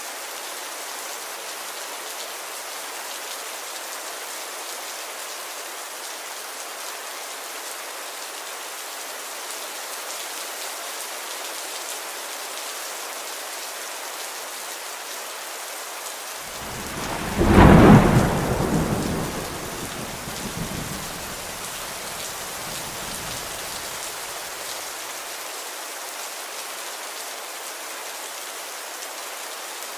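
Steady rain falling, with one loud thunderclap a little past the middle that rumbles away over several seconds.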